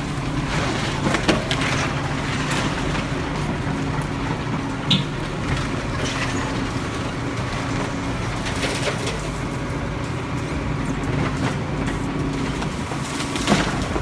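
A heavy machine's engine running steadily, with a few sharp knocks and clanks over it.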